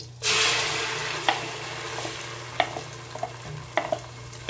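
Wet ground red-chilli masala paste poured into hot oil with garlic and curry leaves, bursting into a loud sizzle as it hits and then slowly easing off, with scattered sharp ticks. A steady low hum runs underneath.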